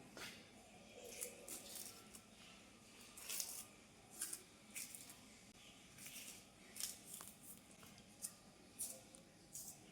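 Faint food-preparation handling sounds: about a dozen short, crisp, hissy strokes at irregular intervals.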